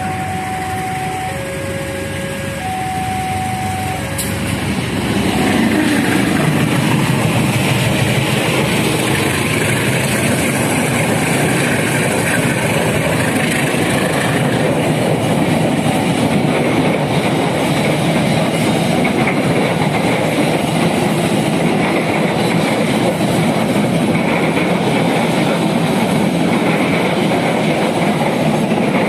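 A level-crossing warning alarm sounds its two alternating tones. From about four seconds in it gives way to a departing local passenger train: the CC 203 diesel-electric locomotive and its coaches roll past close by, a loud, steady noise of wheels on the rails.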